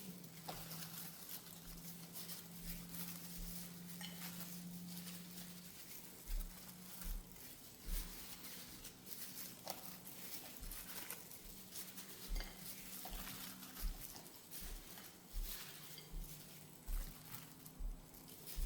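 Kitchen work sounds: utensils and dishes clicking and clinking irregularly, with soft low thumps every second or so and a faint steady low hum.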